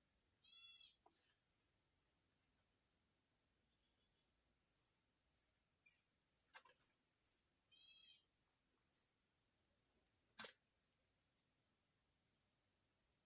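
Steady high-pitched chorus of crickets or similar insects, faint throughout. A run of about nine short, very high chirps, roughly two a second, sounds in the middle, with two brief bird-like calls, one near the start and one about eight seconds in, and a single click about ten seconds in.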